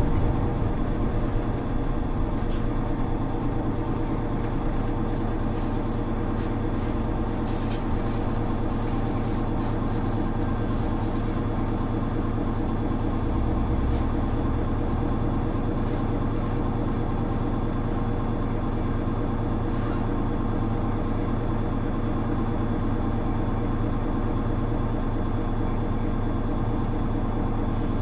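Inside a Hino Rainbow HR city bus (KL-HR1JNEE), its diesel engine runs steadily under an even low rumble, with no audible change in engine speed. A few faint ticks and rattles come from the cabin between about five and eleven seconds in.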